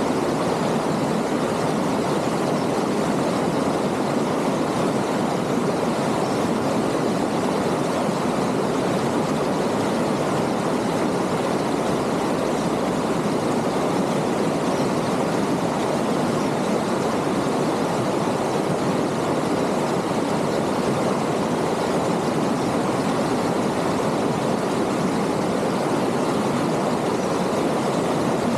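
Rocky creek rushing and splashing over stones: a loud, steady rush of water with no let-up.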